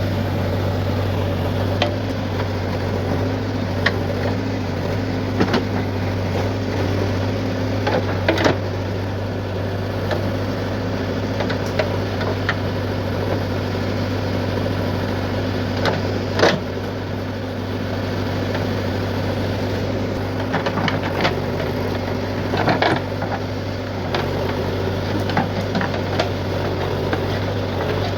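Diesel engine of heavy loading machinery running steadily at a low drone, with scattered sharp knocks and clanks from the loading work.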